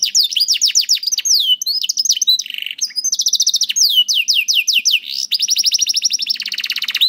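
Domestic canary singing a continuous, loud, rapid song: fast trills of repeated notes alternating with runs of downward-sweeping whistles, and a lower rolling trill twice, about two and a half seconds in and near the end.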